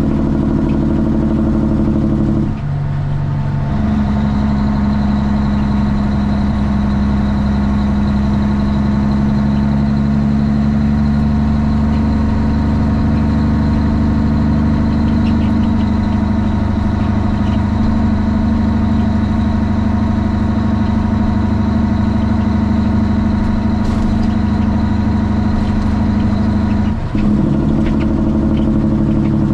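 Straight-piped Cummins ISX diesel of a Kenworth T800 truck running steadily under way. The engine sound drops out briefly and changes pitch a few seconds in, then again near the end, as in gear changes.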